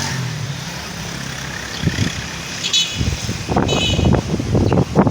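A vehicle engine hums steadily and fades out about a second in. Gusts of ocean breeze then buffet the microphone in irregular low rumbles, with two short high chirps or toots in the middle.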